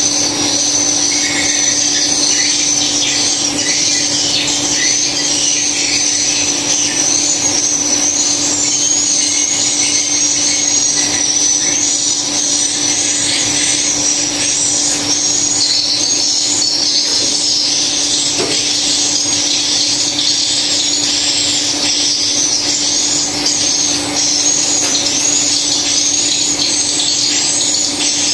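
Dense, continuous chattering of edible-nest swiftlet calls filling a swiftlet house, high chirps repeating over and over, with a steady low hum underneath.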